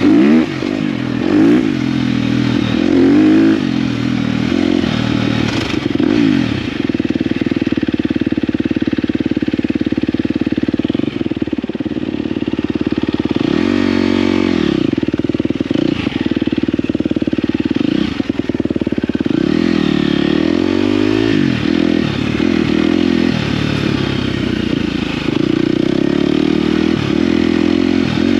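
KTM dirt bike engine running under way, its revs repeatedly dropping and climbing back as the rider works the throttle and gears.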